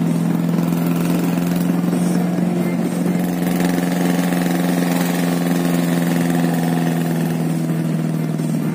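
Car engine droning steadily at cruising speed, heard from inside the cabin with road noise under it.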